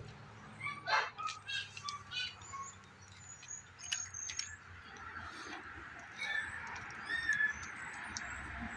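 Birds chirping: a run of quick chirps and trills about a second in, high thin whistled notes around four seconds in, and more chirps near the end.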